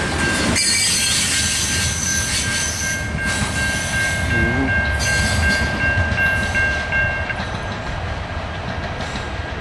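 Coal train's hopper cars rolling on the track with a steady rumble and a thin high-pitched tone over it that stops about seven seconds in. The rumble fades over the last few seconds as the train draws away.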